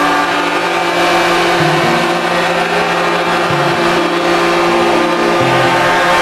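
Truck engines running steadily, with a low tone that changes pitch in steps a few times.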